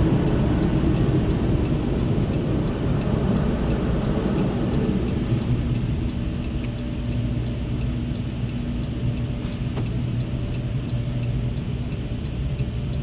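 Inside a Dodge Grand Caravan minivan's cabin: the engine runs with a steady low rumble while the hazard flasher ticks evenly.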